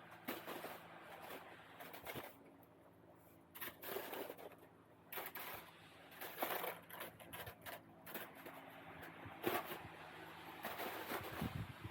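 Packed snow crunching and scraping in irregular short bursts as snow is cleared from a roof with a roof rake.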